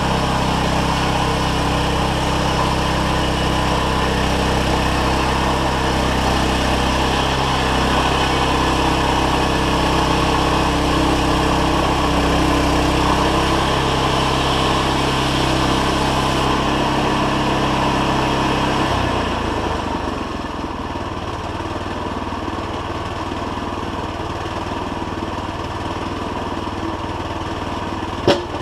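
Engine running steadily, then easing down to a quieter, lower run about 19 seconds in, with a single sharp click near the end.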